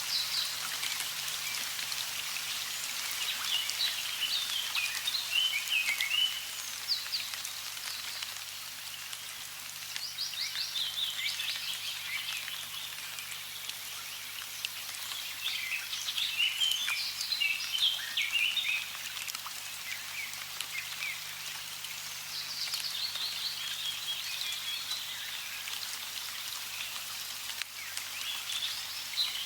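Running water with a songbird singing over it: bursts of quick, high chirps and trills in phrases a few seconds apart, above a steady hiss of water.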